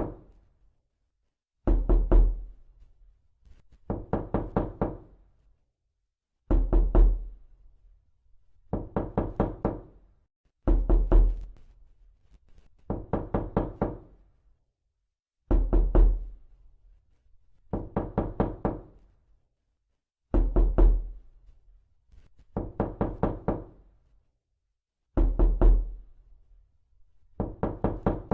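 Knocking in quick bursts of four to six knocks, a new burst about every two seconds, repeating steadily with short silences between.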